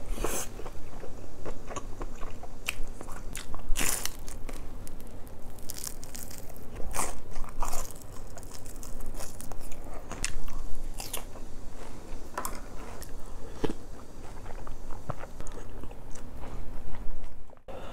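A person biting and chewing food close to the microphone, with crisp crunches at irregular intervals.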